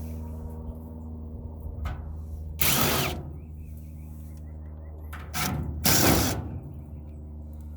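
Handheld power drill/driver run in two short bursts, the second longer, while taking fasteners out of an old furnace. A steady low hum continues underneath.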